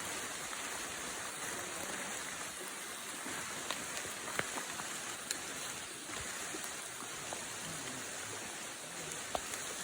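Raindrops pattering on forest leaves: a steady hiss of rain with scattered single drop taps.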